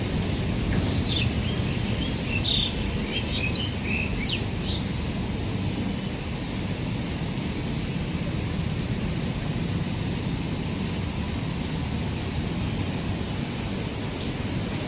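A steady low rumble, with a few short bird chirps in the first five seconds or so.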